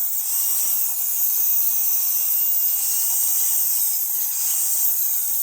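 Angle grinder running against steel exhaust tubing, a steady loud hiss with a faint wavering whine, cutting away metal.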